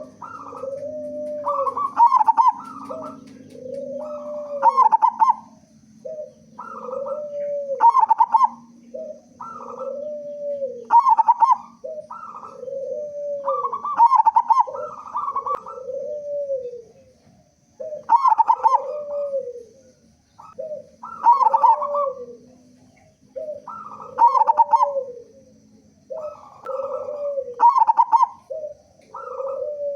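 Zebra dove (perkutut) cooing: the same call phrase repeats about every three seconds, each a quick run of clipped higher notes and a lower rolling coo that rises and falls.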